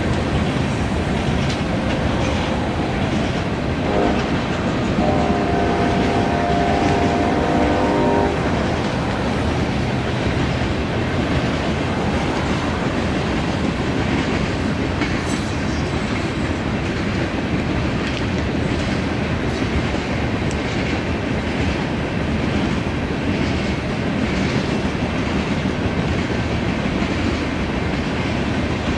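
A loaded coal train rolling past at a grade crossing: the steady rumble and clatter of the cars' wheels on the rails. The locomotive's horn sounds in blasts during the first eight seconds or so, the last and longest from about five to eight seconds in.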